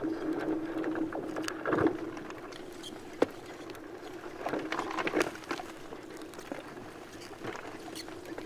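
Sea ice floes rubbing and grinding against each other: a steady squeaking tone under crackles and small clicks. It swells louder about two seconds in and again around five seconds, with one sharp crack a little after three seconds.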